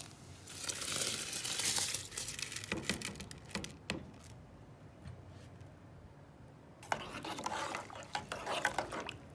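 Washed rice being tipped into a cooking pot and stirred with a spoon: a hissing, scraping rush with sharp knocks of the utensil against the pot, in two spells with a quieter stretch between.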